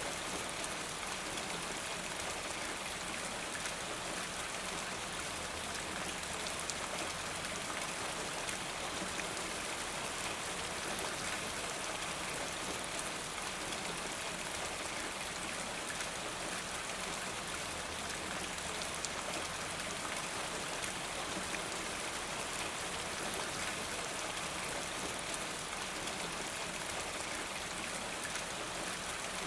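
Steady rain falling: an even hiss flecked with the patter of individual drops.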